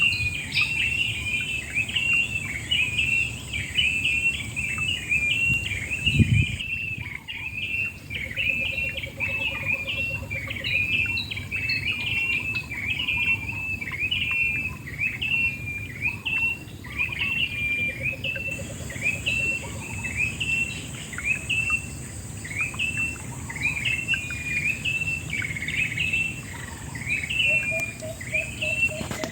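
Birds chirping in a fast, steady series of short calls, one to two a second, over a steady high insect buzz that drops out for about twelve seconds in the middle. Underneath runs a low steady rush of river water, and a dull thump comes about six seconds in.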